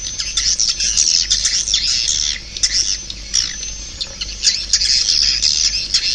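Swiftlet calls: a dense, continuous twittering chatter of many overlapping high chirps, with a few thin whistled notes. It is a swiftlet lure call of the kind played through tweeters to draw swiftlets into a nesting house.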